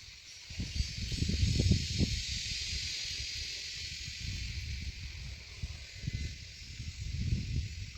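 A steady high hiss, with irregular low rumbling gusts of wind or handling on the microphone starting about half a second in and peaking early and again near the end.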